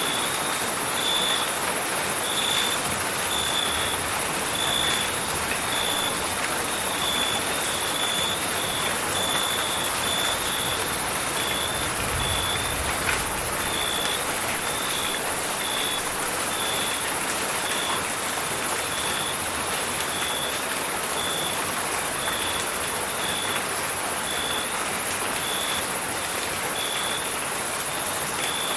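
Steady rain hiss with crickets chirping, a high repeating chirp about once a second over a constant high insect trill.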